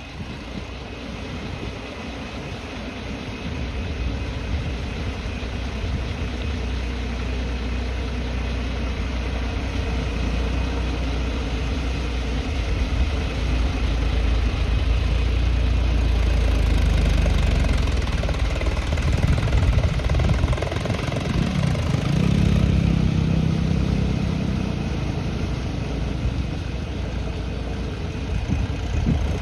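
Massey Ferguson 246 tractor's diesel engine running continuously, growing louder a few seconds in, heaviest through the middle and later part, then easing off near the end.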